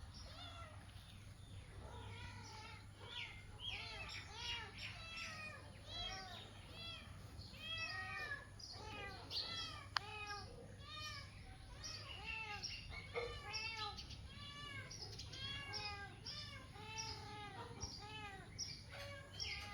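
Cat meowing over and over, many short cries that rise and fall in pitch in quick succession, with a single sharp click about halfway through.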